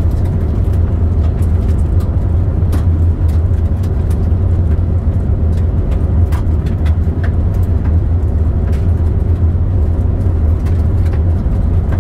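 Steady low rumble of a car driving, heard from inside the cabin, with scattered small ticks throughout.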